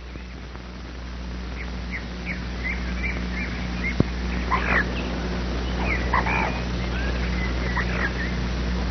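Birds calling: a run of short, quick chirps, with louder, harsher calls about four and a half and six seconds in, over a steady low hum.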